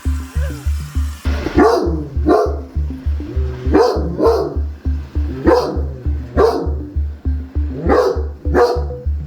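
Great Danes barking deep, single barks, about eight of them and mostly in pairs, over background music with a steady thumping beat.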